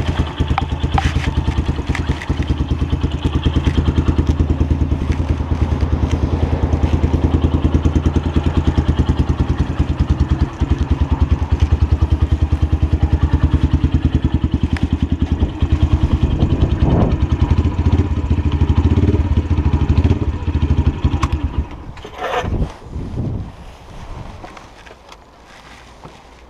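Lexmoto LSM 125 motorcycle engine running steadily at idle, with an even firing beat and no revving. It cuts out about 21 seconds in, and a few low thumps follow.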